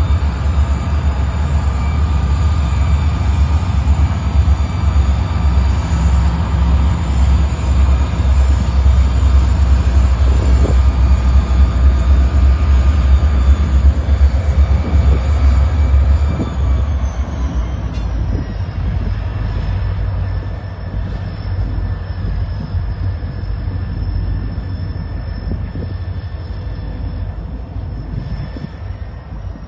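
BNSF diesel locomotives running at close range as they move slowly past, a heavy steady low engine rumble with a steady whine above it. The sound drops off noticeably a little past the middle.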